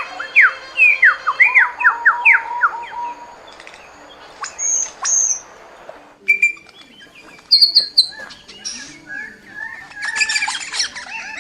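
Bird calls: a quick run of high whistles, each sliding downward, then after about six seconds a change to scattered chirps that grow into busy twittering near the end.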